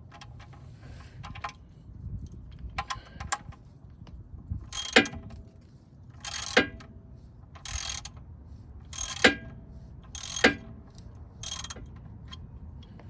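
Ratchet wrench with a 13 mm socket working the oil drain plug loose: a few light clicks, then about six short bursts of fast ratchet clicking, each about half a second long and a second or so apart.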